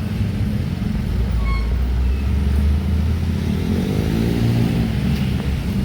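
Heavy diesel truck engine rumbling as it drives past at close range, its pitch rising and falling about halfway through as it goes by.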